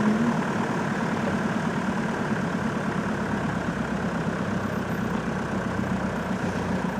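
Safari game-drive vehicle's engine idling steadily while stopped.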